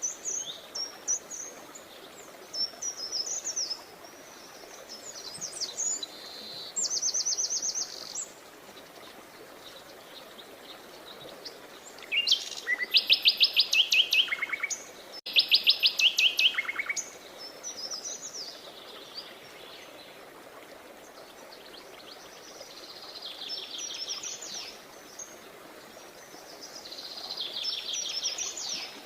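Songbirds singing: scattered high chirps and short trills, with two loud, rapid trills in the middle, over a faint steady background hiss.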